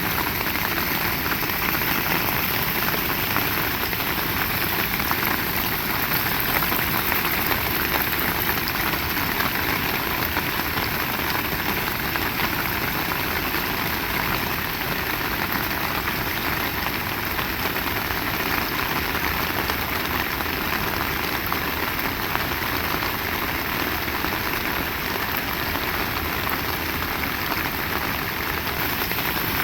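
Heavy rain pouring down in a steady, dense hiss that stays even throughout.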